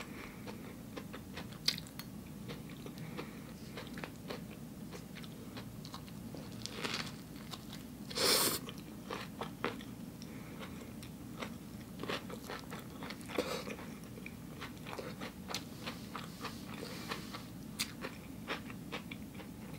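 A person biting and chewing crunchy raw vegan food close to the microphone. There are scattered crisp crunches and wet chewing clicks, the loudest crunch about eight seconds in.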